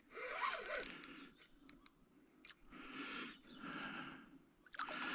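Fishing reel being wound in short spells, with a few sharp clicks in between.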